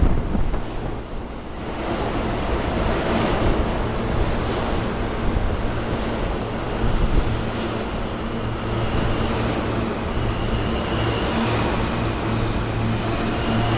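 R160 subway train running into the station, a steady rushing rumble with a low hum under it as it slows. A faint high whine joins in about ten seconds in.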